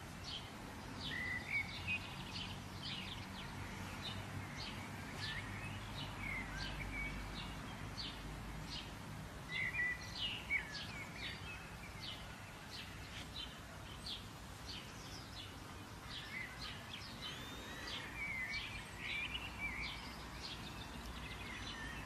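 Small songbirds chirping and singing, with many short notes and trills throughout, over a steady low background rumble of outdoor ambience.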